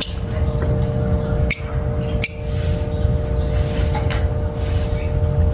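African lovebirds giving a few sharp high chirps over a steady low rumble, with a couple of quick clicks about a second and a half and two seconds in.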